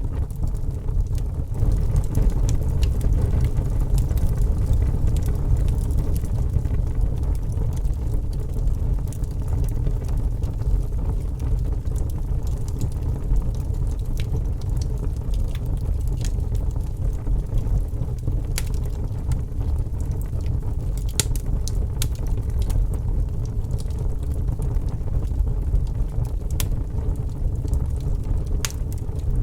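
Wood fire crackling: scattered sharp pops and snaps at uneven intervals over a steady low rumble.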